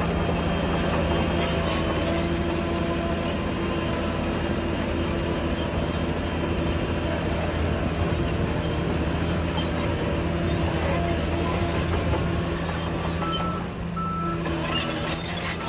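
Heavy diesel earthmoving machinery running steadily under load. Near the end the engine eases off and a reversing beeper gives a couple of short beeps.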